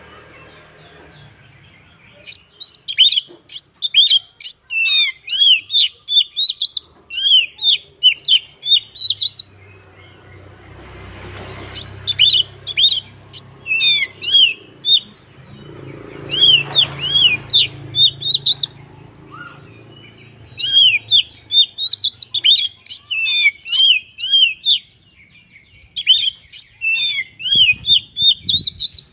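Oriental magpie-robin (kacer) in full song: bouts of rapid, short whistled notes that sweep sharply up and down, each bout lasting a few seconds, with brief pauses between.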